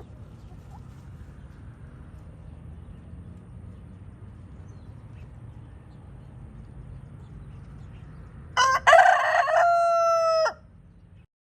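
A rooster crows once, a loud cock-a-doodle-doo about two seconds long near the end, over a low steady background rumble.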